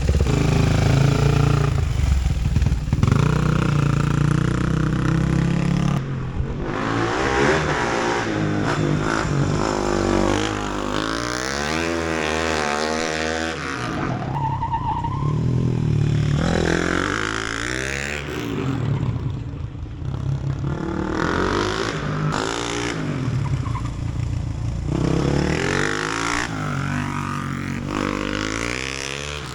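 Flat-track race motorcycle's engine revving up and falling back again and again as it accelerates down the straights and slows into the turns. It is loudest for the first six seconds, then runs on a little farther off.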